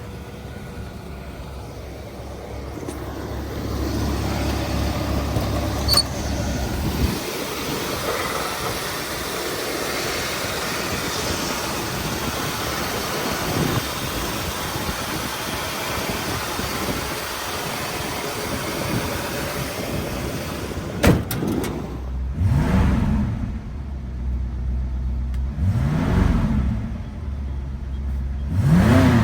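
1966 Ford Mustang coupe's engine running, revved in three short throttle blips near the end, each rising and falling in pitch.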